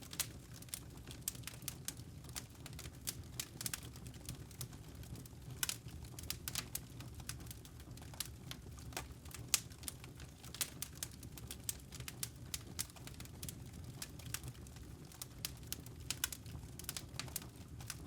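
Wood campfire crackling: irregular sharp pops and snaps over a low steady rumble of burning logs.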